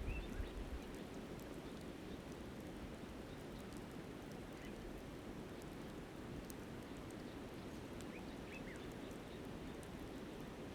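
Steady rush of a flowing river, with faint scattered crackles from a campfire and a few short bird chirps.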